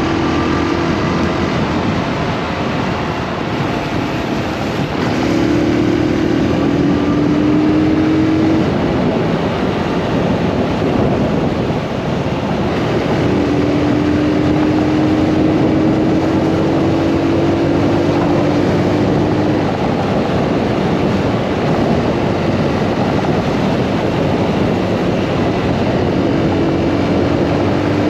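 Motorcycle under way: steady wind noise on the microphone over the engine, whose note rises slowly in pitch three times as it speeds up.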